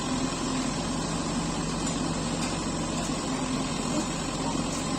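Diesel engines of a backhoe loader and a tractor running steadily as the loader fills the tractor trolley with soil.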